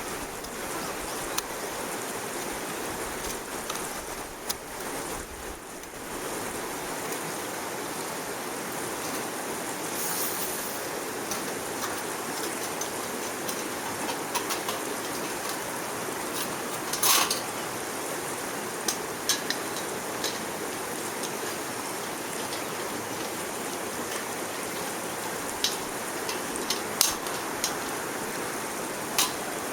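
Wood fire burning in a small backpacking wood stove: a steady rushing sound with a few sharp crackling pops scattered through.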